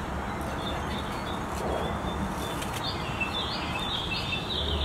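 Small birds chirping, many short repeated chirps, over a steady hiss of outdoor background noise.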